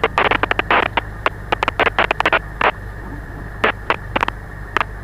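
Cessna 172's engine running at low power as a steady low hum, overlaid by rapid, irregular crackles of static over the headset audio.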